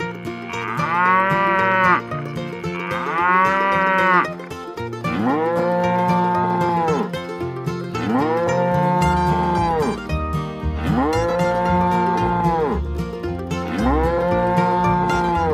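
Cow moos repeated six times: two higher-pitched calls first, then four lower ones about three seconds apart, each a long call that rises and falls. Plucked-string background music plays underneath.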